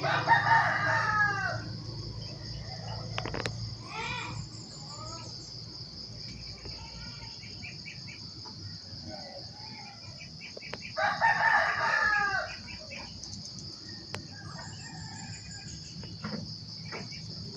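A rooster crowing twice, about ten seconds apart, each crow lasting about a second and a half, with smaller bird chirps between and a steady high-pitched hum underneath.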